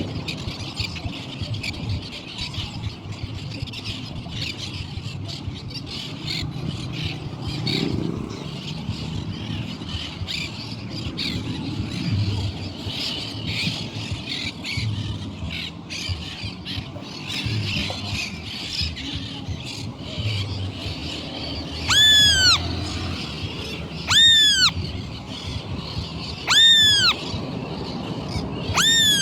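Many birds chirping and chattering together, then four loud, arched calls from one bird in the last third, each about half a second long, rising and falling in pitch, repeated about every two and a half seconds.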